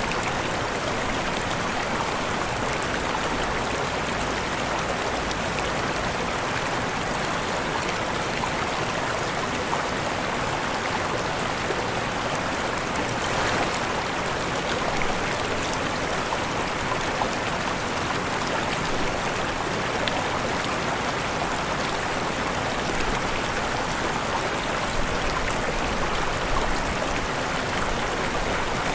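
Waterfall, a steady rushing of falling water with no breaks.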